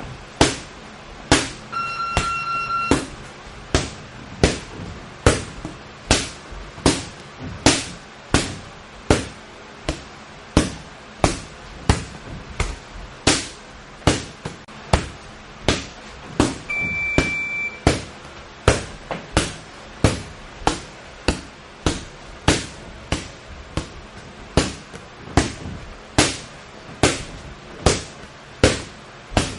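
Gloved punches landing in a steady rhythm, about three every two seconds, as two boxers throw combinations together. An interval timer's buzzer gives a short electronic beep about two seconds in and again about fifteen seconds later, signalling the change of combination.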